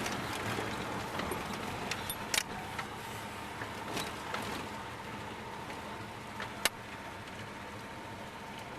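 1992 Dodge Dakota pickup driving on wood gas, its engine and road noise heard from inside the cab, with a few sharp knocks and rattles, the loudest about two-thirds of the way through.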